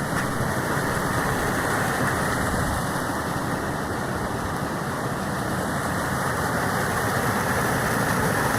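A rain-swollen mountain river raging: a loud, steady rush of water.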